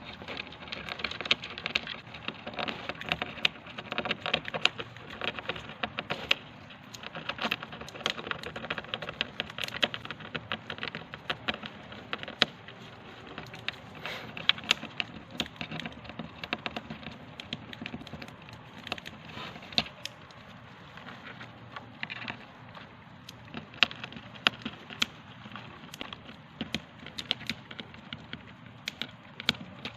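Hamster nibbling and cracking dry seeds, a fast irregular run of small crisp clicks and cracks that eases off for a few seconds now and then.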